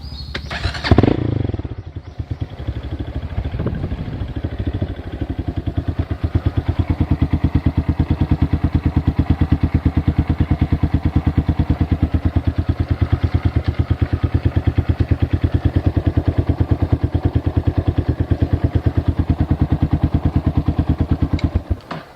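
A small engine starts with a loud burst about a second in and settles into a steady, evenly pulsing idle. It cuts off abruptly shortly before the end.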